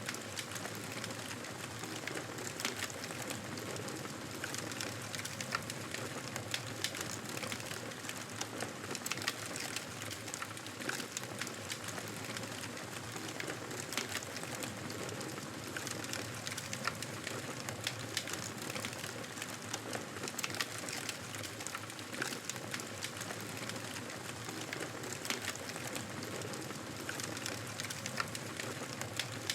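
Wood campfire burning, with steady hissing and frequent small irregular crackles and pops.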